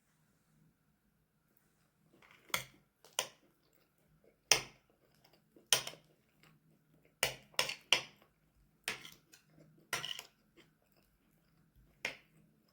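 Dishes and cutlery being handled: about a dozen sharp clinks and knocks at irregular intervals, starting about two seconds in.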